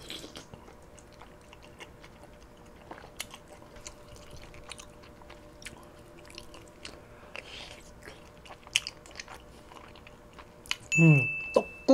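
A person chewing chewy tteokbokki rice cakes, with soft, scattered wet mouth clicks.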